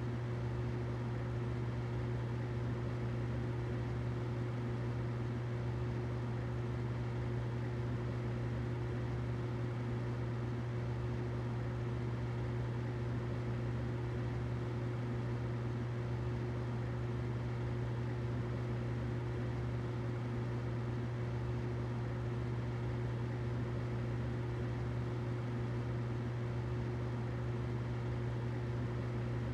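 Humidifier running: a steady, unchanging low hum with a fainter higher tone and a soft even hiss over it.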